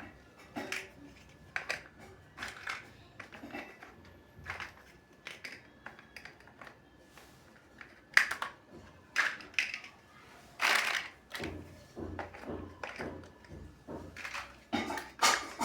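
Plastic building bricks being handled and pressed together, making irregular clicks, taps and snaps, with a couple of louder snaps partway through.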